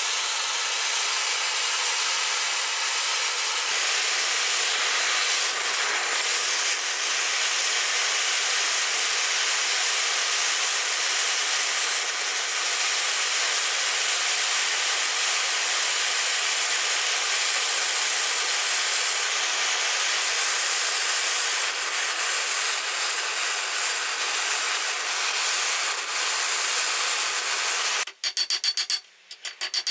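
A steady, even hiss of rushing noise, with no beat and no pitch. Near the end it breaks off into a few quick, evenly spaced strokes.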